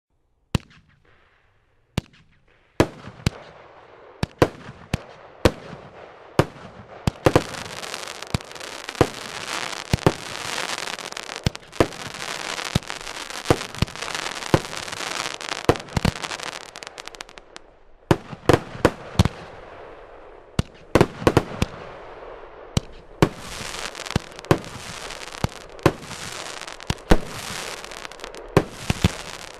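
A 50-shot firework cake firing: a rapid run of shots and loud titanium reports, with long spells of dense crackle from crackling peonies and comet tails.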